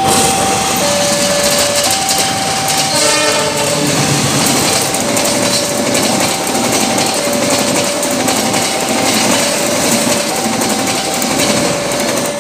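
Level-crossing warning alarm sounding two alternating tones, high then low about once a second, while a passenger train passes close by on the track; the train's noise swells from about four seconds in, just after a short horn note.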